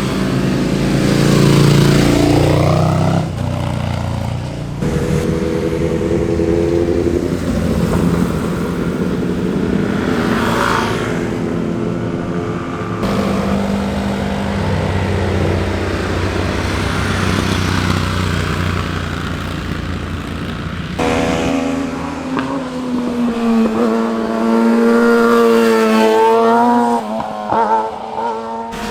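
Motorcycles riding past one after another, each engine revving with its pitch rising and falling as it accelerates and goes by. The sound changes abruptly between passes, about every five to eight seconds.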